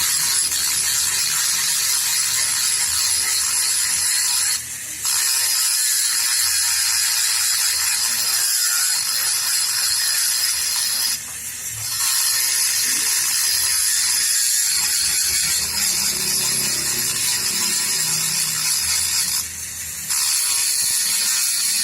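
Steady rasping mechanical noise, breaking off briefly three times.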